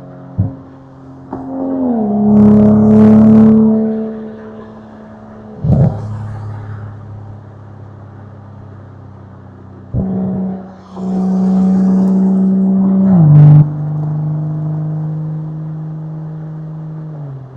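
Toyota Supra MK5 with an RK titanium exhaust, its exhaust note swelling loudly twice under throttle, each time ending with the pitch stepping down. Short sharp cracks come about six and ten seconds in.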